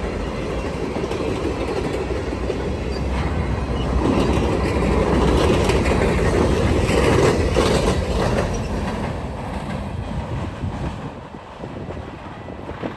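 CN freight train cars rolling past, their steel wheels clicking over rail joints. The sound is loudest in the middle and dies down over the last few seconds.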